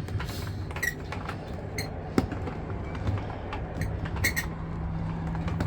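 Small plastic clicks and taps from handling a small RC boat's hull and hatch cover while it is opened and checked for water, over a steady low background rumble. A low steady hum comes in about four seconds in.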